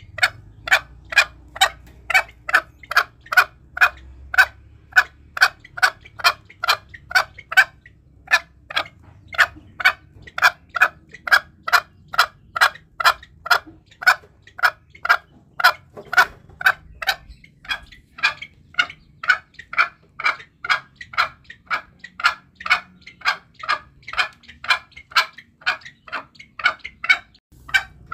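Green junglefowl calling as a hunting lure: short, sharp notes repeated evenly at about two or three a second without a break.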